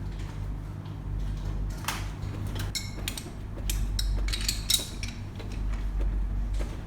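A run of sharp metallic clicks and clinks between about two and five seconds in, over a steady low hum.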